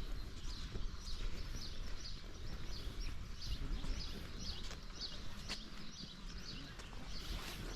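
Birds chirping repeatedly in short, quick notes, a few each second, over a steady low rumble.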